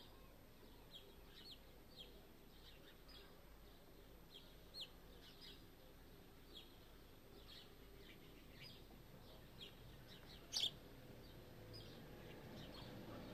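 Faint birdsong: small birds giving short, high chirps that slide downward, scattered about once a second over a quiet hush, with one brief, louder, sharper sound about ten and a half seconds in.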